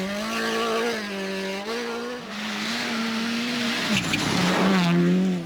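Rally car engine running hard at high revs, its pitch holding and then dipping and climbing again several times as the driver shifts gears and lifts off, over a steady hiss of tyres on the stage.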